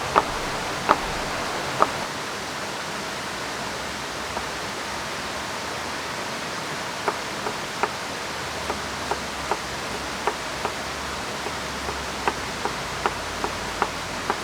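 Steady rush of a river and falling rain, with scattered sharp ticks, a few about a second in and a run of them in the second half.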